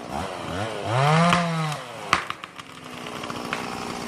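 Chainsaw revving up to full throttle about a second in, then dropping back to a low idle. A sharp crack comes just after the revving falls, followed by a few smaller clicks.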